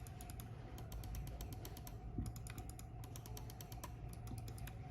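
Computer mouse buttons being clicked in quick, irregular runs, the clicks faint and light.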